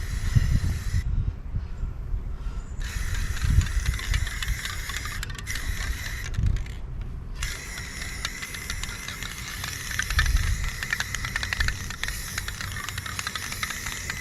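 Aerosol spray-paint can hissing in long sprays. It stops for about two seconds a second in, and again for about a second around six to seven seconds in, as the nozzle is let go. A low rumble runs underneath.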